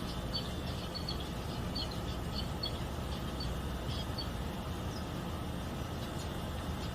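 Strawberry finches (red avadavats) giving a run of short, high chirps over the first four seconds or so, with one more a little later. A steady low traffic rumble lies beneath.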